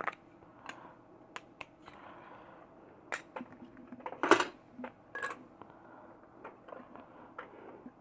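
Scattered light clicks and taps of small parts being handled while a new LED board is picked out, with the loudest cluster of knocks about four seconds in.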